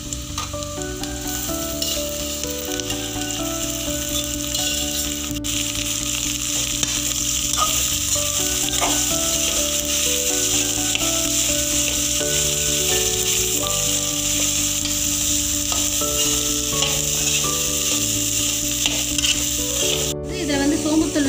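Soya chunks with garlic and curry leaves frying in hot oil in a metal kadai, a steady sizzle, stirred now and then with a metal spoon.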